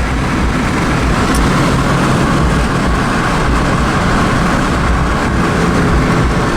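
A car running steadily: low engine noise mixed with road or wind noise, with no clear rise or fall.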